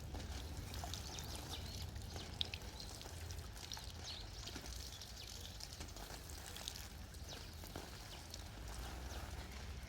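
Water being poured and trickling, with scattered small splashes and drips over a faint low rumble.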